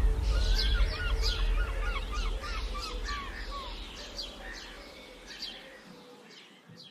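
Several small songbirds chirping and singing, with a fast run of short falling notes in the first few seconds, over a low rumble. The whole sound fades out gradually and is gone by the end.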